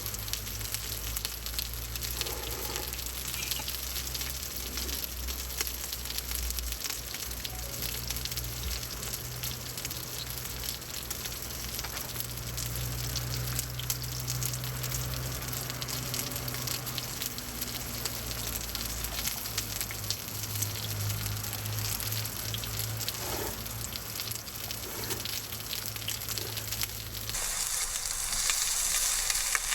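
Food sizzling and crackling in a hot pan, with a steady low hum underneath. The sound changes abruptly about two seconds before the end: the hum stops and the hiss becomes brighter.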